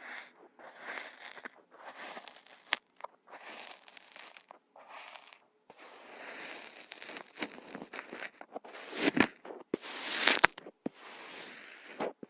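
Kinetic sand being handled close to the microphone: a string of soft crunching, crumbling strokes separated by short pauses, with a few sharp clicks. The two loudest crunches come about three-quarters of the way through.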